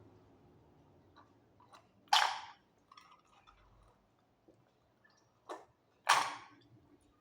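Close-miked eating mouth sounds: faint clicks of chewing, with two loud, brief mouth sounds about four seconds apart.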